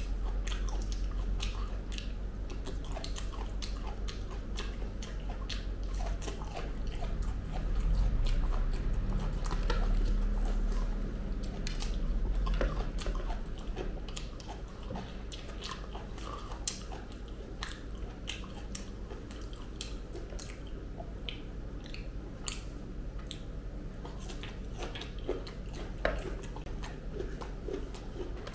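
Close-up chewing of ripe jackfruit flesh, with frequent wet mouth clicks and smacks. A steady low hum runs underneath and is stronger for the first half.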